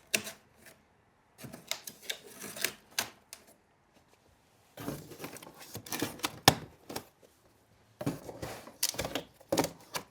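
Corrugated cardboard shelf panels being handled as tabs are folded over and tucked into slots: three bursts of scraping and sharp tapping clicks with short pauses between.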